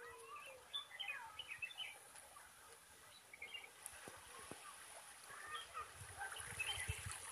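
Several birds chirping and twittering, faint short calls scattered throughout with a brief lull in the middle.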